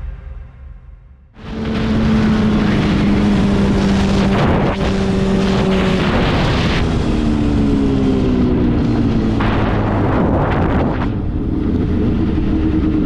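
Motorcycle engine running, with wind noise over it. It starts about a second in after a quiet moment, holds a steady pitch, then falls slowly in pitch through the middle as the bike slows before settling again.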